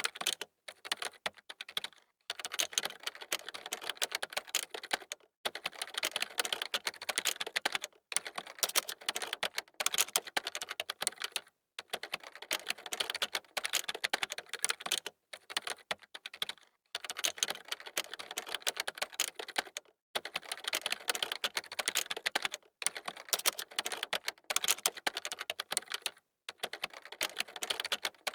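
Fast typing on a computer keyboard: dense runs of key clicks broken by brief pauses every two or three seconds.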